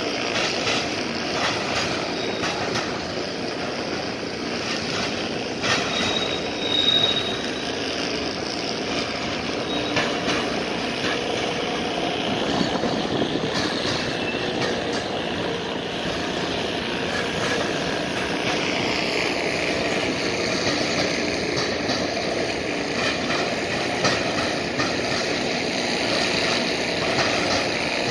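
A CN mixed freight's cars rolling past: a steady clatter of steel wheels on rail, with scattered sharp bangs as the wheels cross a railroad diamond. There is a brief high wheel squeal about six seconds in.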